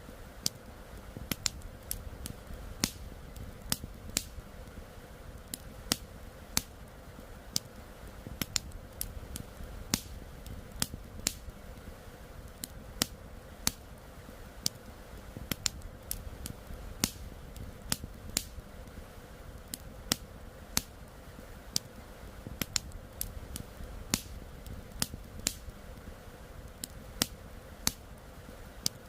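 Wood campfire crackling, with sharp irregular pops about two or three times a second over a steady low rush of river flow.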